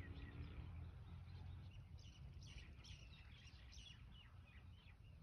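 Faint bird chirps: a scatter of short, falling calls, busiest in the middle, over a low steady outdoor rumble.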